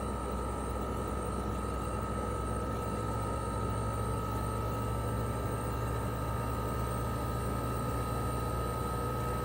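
Outdoor unit of a 1997 Toshiba RAS-285BAD inverter mini-split air conditioner running in cooling mode: its twin-rotary compressor and propeller fan give a steady low hum with a thin, steady high-pitched tone above it. The low hum grows slightly stronger about three and a half seconds in.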